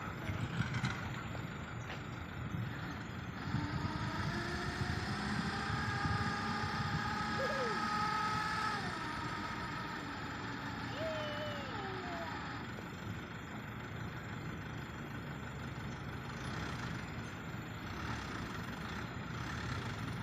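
Heavy diesel excavator running under load, a steady low engine rumble. A whine rises about four seconds in and holds for about five seconds before dropping away.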